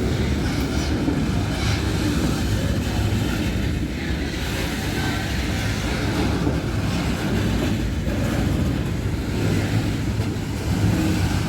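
Loaded freight train rolling past: a steady low rumble of steel wheels on the rails.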